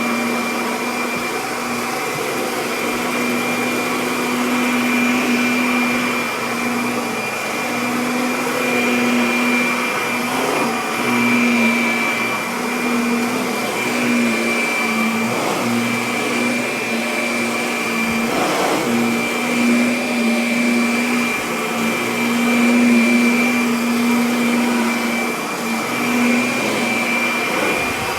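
Kirby Avalir vacuum cleaner running steadily, its motor hum wavering and dipping briefly now and then, with a few short crackles of pickup.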